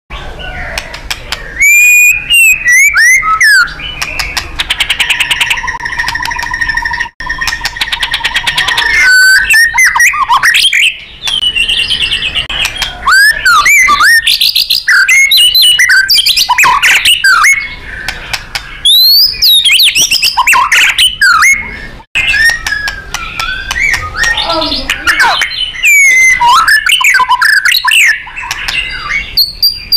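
White-rumped shama (murai batu) singing loudly and without pause, a varied song of clear whistles, sweeping rising and falling notes and rapid trills, with two very brief breaks.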